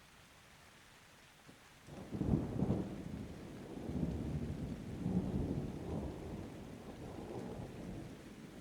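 Thunder over light rain: a low rumble breaks in about two seconds in, is loudest just after, then rolls on in waves for several seconds and fades near the end.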